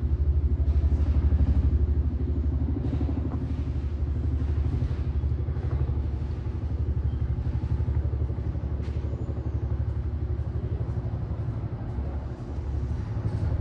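Helicopter rotors beating in a rapid, steady throb as the helicopter flies past.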